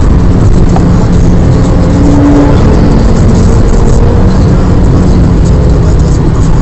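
Fiat Stilo Abarth's 2.4-litre five-cylinder engine running hard with road and wind noise, heard from inside the cabin. The sound is very loud and steady on a mobile phone's microphone.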